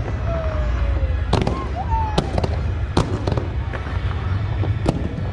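Fireworks display: volleys of rockets launching and bursting, giving sharp bangs at irregular intervals over a continuous low rumble.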